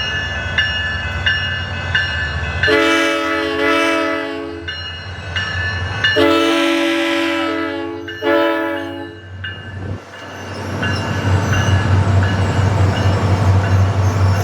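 Train horn sounding three blasts, two long and then a short one, over a steadily ringing bell and a low engine rumble. After the horn the low rumble grows louder.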